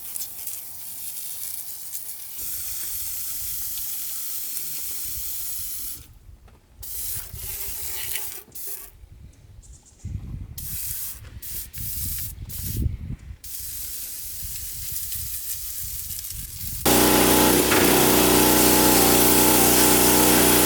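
Aerosol engine degreaser hissing from the can, first in a steady spray and then in short on-off bursts. About 17 seconds in, a much louder, steady machine noise with a low hum cuts in abruptly.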